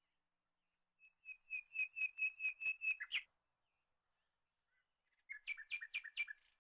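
A bird singing two phrases of quickly repeated whistled notes, about five a second. The first phrase lasts about two seconds and grows louder before ending in a quick flourish; a shorter phrase follows about two seconds later.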